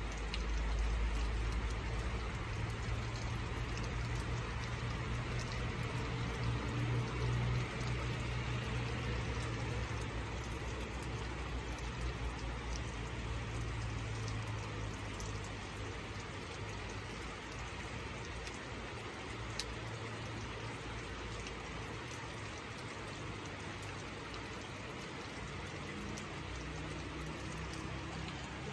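Steady rain falling, an even hiss with scattered small drip ticks. A low rumble sits under it for about the first half and fades away.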